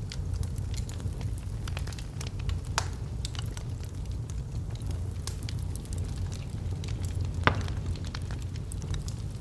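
Wood fire of burning logs crackling in a fireplace: a steady low rumble of the flames with scattered sharp pops, one louder pop about three quarters of the way through.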